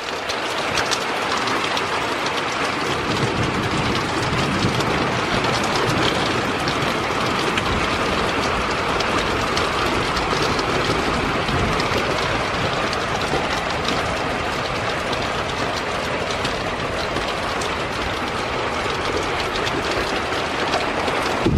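Heavy rain falling steadily in a thunderstorm, an even rushing hiss of downpour.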